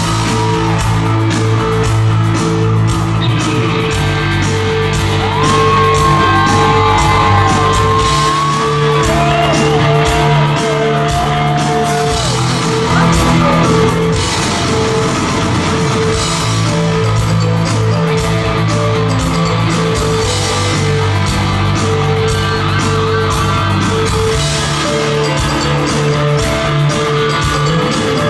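Rock band playing an instrumental passage: drums keeping a steady beat under bass and guitars, with a lead line that bends and slides in pitch.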